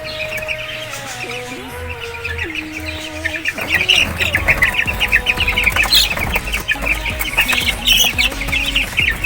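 A brood of young Sweater Boston gamefowl chicks peeping rapidly and continuously, the calls thickening and growing louder about a third of the way in. Background music with held notes plays under the first few seconds.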